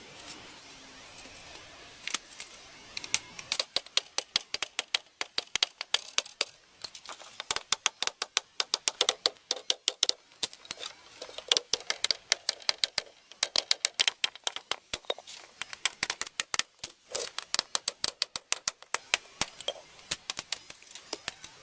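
A rapid, irregular run of sharp clicks and taps, several a second, that begins about three seconds in.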